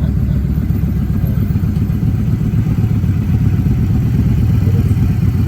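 Motorcycle on the move: a steady low rumble of engine and wind noise with no change in speed.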